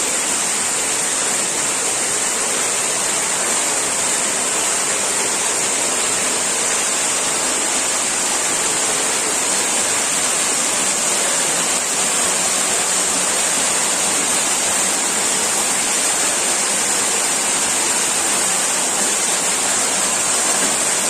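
A steady, unchanging rushing noise with a strong high hiss.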